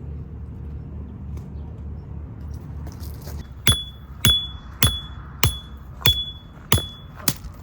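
Seven evenly spaced hammer blows on a metal tent peg, about one every 0.6 s, starting about halfway through, each leaving a short high ring, over a steady low rumble.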